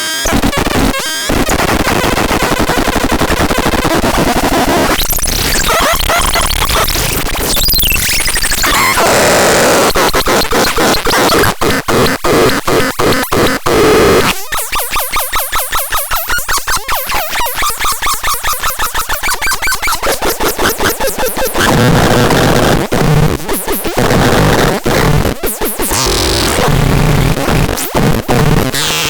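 Harsh electronic noise from the Mulbeek noise device: loud, dense distorted noise with sweeping pitches. About halfway through it turns into fast, even pulsing with the bass cut away for several seconds, then goes back to stuttering noise with low tones.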